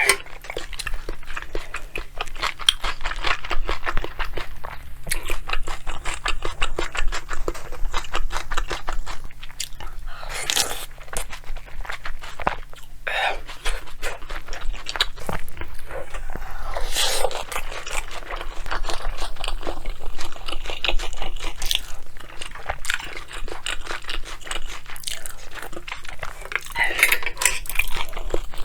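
Close-miked chewing and crunching of bibimbap with water kimchi, a rapid run of wet, crisp clicks with a few louder crunchy bites.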